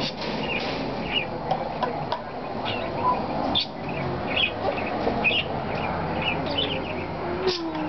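Small birds chirping outside, short high chirps repeating irregularly, with a few sharp taps or knocks in between.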